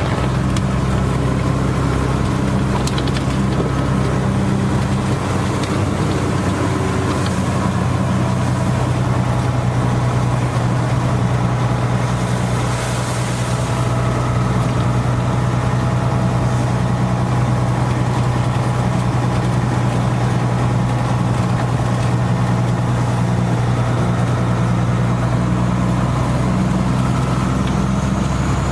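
A steady low hum like an idling engine, unchanging throughout, with a fainter hiss behind it.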